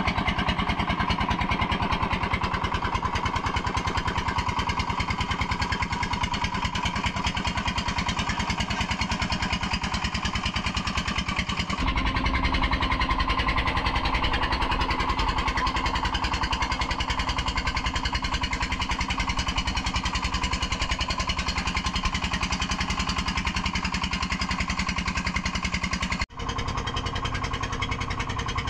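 A small engine running steadily at cruising speed, its note dropping lower and fuller about twelve seconds in.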